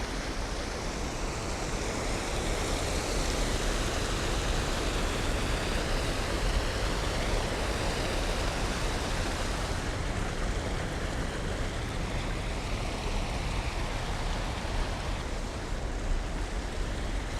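Water rushing steadily down a fish ladder.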